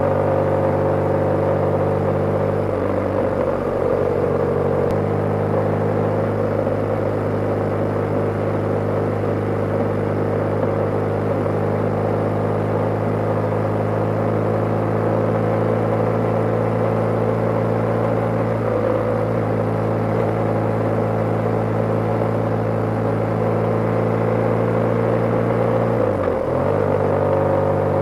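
BMW G/S motorcycle engine running steadily at cruising speed. Its note shifts a few times: a few seconds in, about two-thirds through, and again near the end, as throttle or gear changes.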